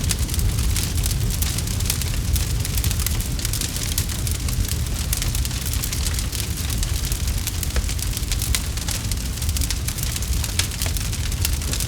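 Campfire burning with a steady low rumble of flames and many small, rapid crackles and pops from the burning wood.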